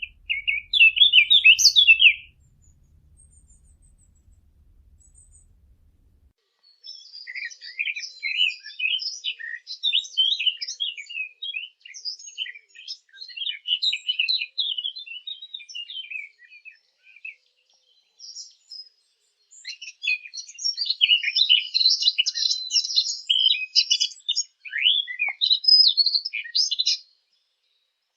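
Garden warbler singing: a brief burst of quick notes, then two long runs of fast, rambling warbling song with a pause between them.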